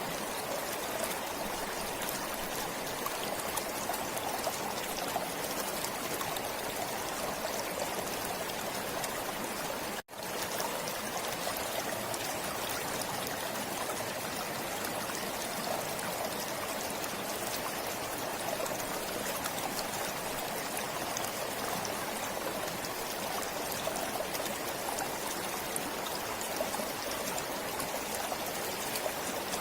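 Stream water flowing and trickling steadily. The sound cuts out for an instant about ten seconds in and fades straight back up.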